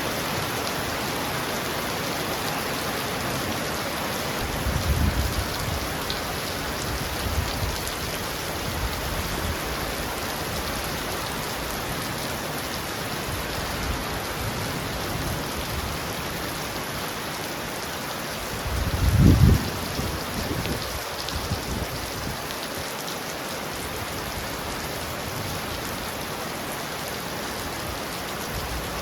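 Heavy rain falling steadily on a roof. Low rolls of thunder come in about five seconds in, and a louder one comes just past the middle.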